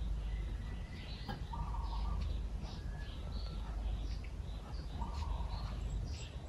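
Birds chirping and calling repeatedly from outside, over a steady low rumble.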